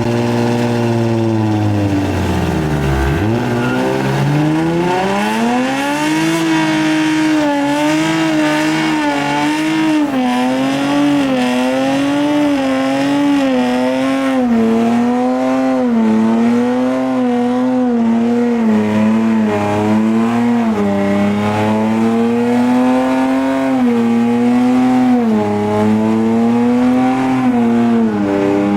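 Car engine revving high under hard driving. Its pitch drops sharply about three seconds in, then climbs and keeps swinging up and down about once a second as the throttle is worked, with tire squeal.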